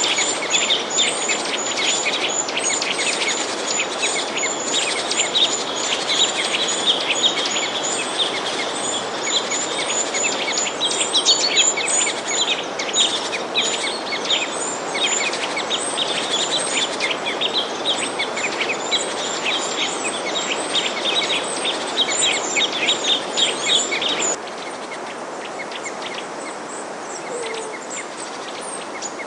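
A flock of small songbirds chirping and twittering densely, with rapid repeated high chirps over a steady background hiss. About 24 seconds in, the chorus drops suddenly to quieter, sparser calls.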